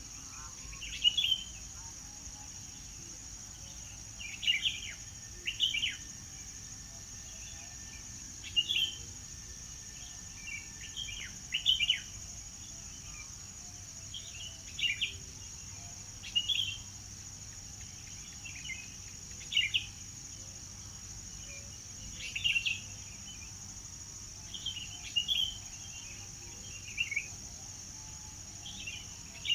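Songbird singing short chirping phrases every second or two, over a steady high-pitched drone.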